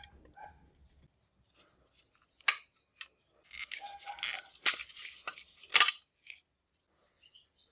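Hand work on small parts: a sharp click, then about two seconds of scraping with two more sharp clicks, and a few faint ticks near the end.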